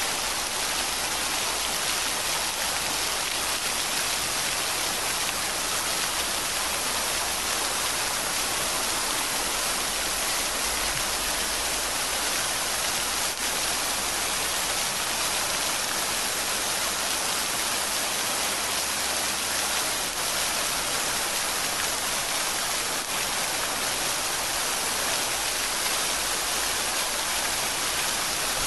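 Steady rain falling, a constant even hiss with no pauses or single drops standing out.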